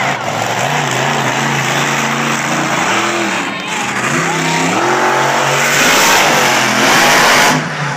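Monster truck engine revving hard during a wheelie run, its pitch climbing and dropping several times over a heavy roar. It is loudest near the end, then falls away suddenly.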